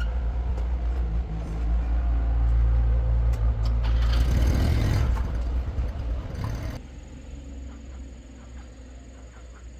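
A motor vehicle's engine running with a heavy low rumble. It swells in the middle, then cuts off abruptly about seven seconds in, leaving a quieter background.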